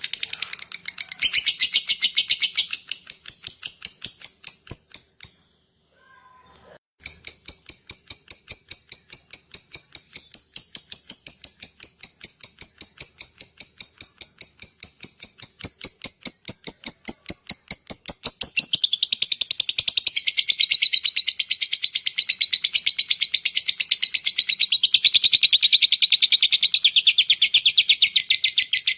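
Lovebird calling in long runs of rapid, evenly repeated high-pitched chirps, the long 'ngekek' chatter used to lure other lovebirds. It breaks off briefly about five seconds in, then resumes. About two-thirds of the way through it changes to a denser, lower trill.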